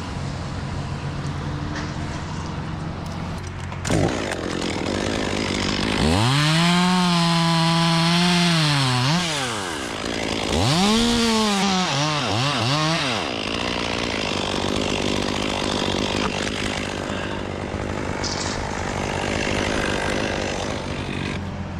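Two-stroke chainsaw cutting through magnolia limbs: the engine runs steadily, then about six seconds in it is throttled up, holds at full revs for about three seconds and drops back, followed by a few shorter bursts of revving before settling back to a steady run.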